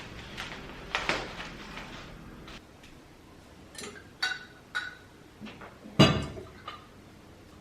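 Dishes and glassware being handled: several light clinks with a brief ring, then a heavier knock about six seconds in.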